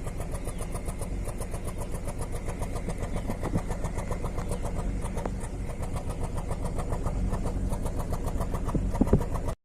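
Toyota Camry V6 engine running at a steady idle with an even pulsing beat, with a couple of sharper knocks near the end before it cuts off abruptly.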